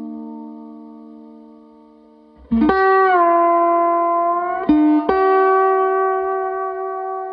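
Guitar music: a chord rings out and fades, then new notes are struck about two and a half seconds in, bending down in pitch and back up, and a last chord struck about halfway through rings on and slowly fades.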